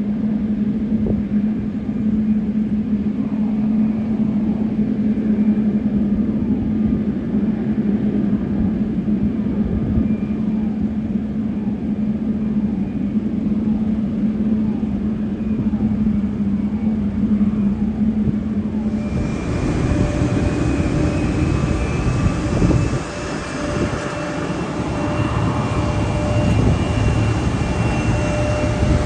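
Jet airliner engines running, a steady rumble with a low hum. About two-thirds of the way through it cuts abruptly to a different engine sound with steady high whining tones.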